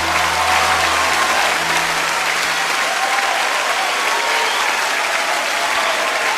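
Audience applauding steadily, while a low held chord fades out over the first two seconds or so.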